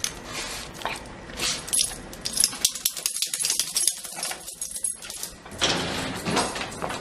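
A wet dog moving about after coming in from the rain, with rustling and a run of small clicks and rattles that get busier near the end.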